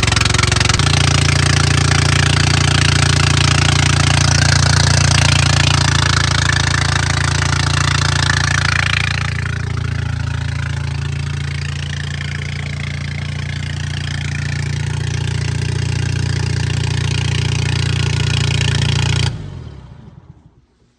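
Bobcat 732 skid steer's engine running steadily, then shut off about 19 seconds in and dying away within a second.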